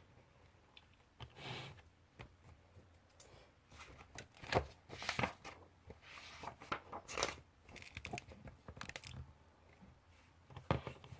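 Paper rustling and being handled on a desk, with several sharp knocks among the rustles, the busiest stretch in the middle and one last knock near the end.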